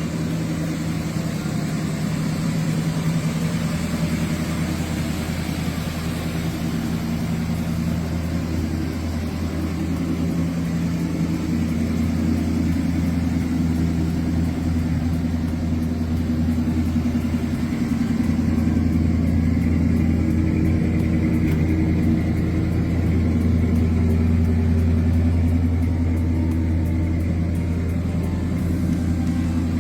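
1965 Ford Galaxie 500's 289 cubic inch V8 running steadily through its dual exhaust, with a low, even drone that grows somewhat louder about halfway through.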